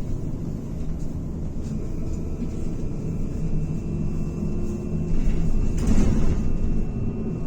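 Cabin noise of a MAZ-203T70 trolleybus on the move: a steady rumble of road and body noise with the traction drive's steady humming tones. About six seconds in, a short louder burst of noise, as from a jolt.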